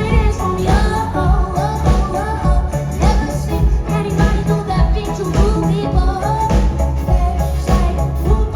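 Live pop music: a melody line, with singing, over a steady bass-heavy beat.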